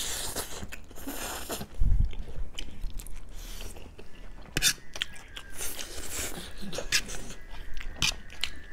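Close-up eating of buff (buffalo-meat) chowmein noodles: chewing with a run of small, irregular wet clicks and smacks.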